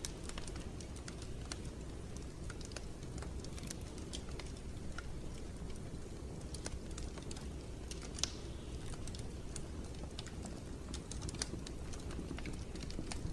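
Wood fire crackling in a fireplace: irregular sharp pops and snaps over a steady low rumble of the flames, with one louder pop about eight seconds in.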